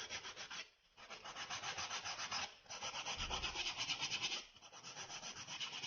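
Nail file rasping along the edge of a small cut-out decorative brick tile, rounding off its sharp corner with quick back-and-forth strokes, several a second. The strokes come in four runs separated by short pauses.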